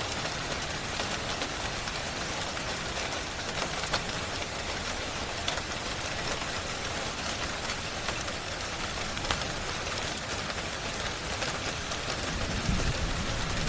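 Steady rain hiss with scattered sharp crackles through it, and a brief low rumble near the end.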